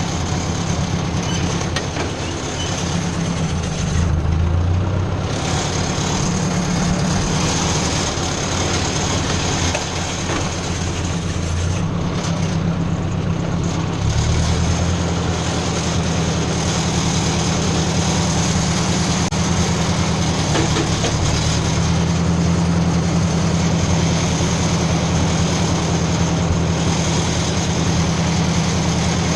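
Ford 600 tractor's carbureted four-cylinder gasoline engine running steadily. Its note and loudness shift about four seconds in and again about fourteen seconds in.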